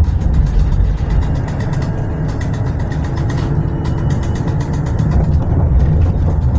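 Tram running: a steady low rumble with frequent short rattling clicks.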